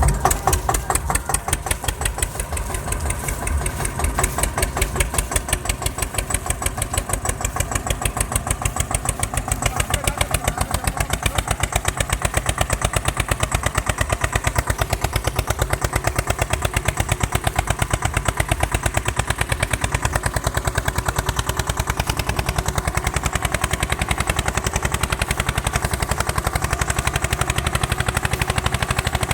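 Eicher 242 tractor's diesel engine running with a steady, rapid chugging beat.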